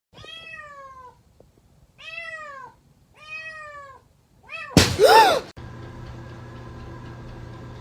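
Domestic cat meowing: three drawn-out calls that fall in pitch and a short fourth, then a louder, harsher cry about five seconds in.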